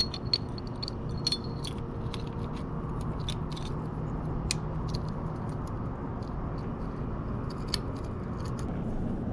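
Sharp metallic clicks and clinks from small engine parts and hand tools being handled, spaced a second or more apart, over a steady low background rumble.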